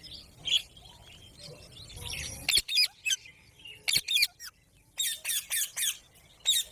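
Pet green parrot squawking in short, shrill screeches: a few scattered calls, then a quick run of about six near the end.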